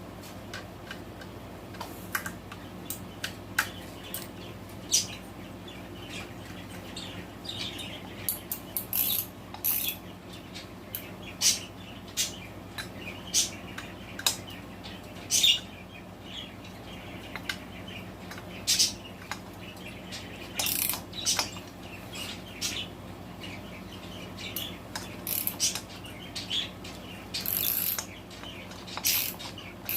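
Ratchet wrench clicking in short irregular runs while head bolts are snugged down on a cylinder head. Pet budgies chirp intermittently over it.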